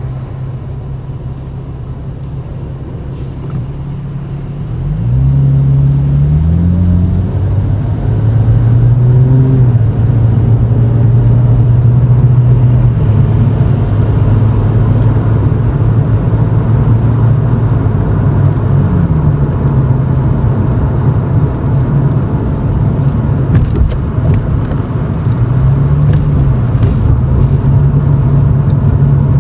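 Toyota Chaser GX100's 2.0-litre straight-six exhaust through an aftermarket Reinhardt bullet muffler, heard from inside the cabin at low speed. The low exhaust drone grows louder and rises in pitch about five seconds in as the car accelerates, then settles into a steady drone with a few small shifts in pitch.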